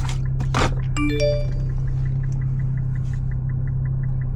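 Steady low engine drone inside a car, with a short electronic chime of several tones about a second in, followed by a fast, even ticking.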